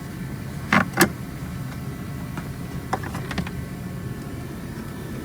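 Two sharp knocks about a second in, then a few lighter clicks and taps, as the heater core box is worked loose and lifted out from under a car's dash, over a steady low hum.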